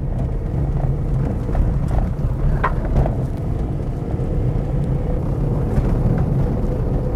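Car driving, heard from inside the cabin: a steady low engine and road rumble, with a few short knocks and rattles about two to three seconds in.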